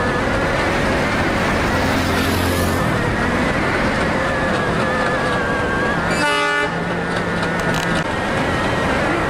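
Train running, a steady noise with a held, wavering tone over it, and one short horn blast about six seconds in.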